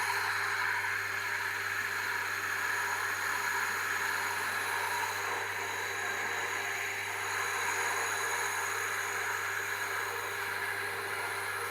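Tormek T8 wet sharpener running with a dressing stone pressed against the edge of its SG-250 grinding wheel: a steady gritty hiss of stone on stone over the machine's low hum, as the wheel's edge is worn into a radius.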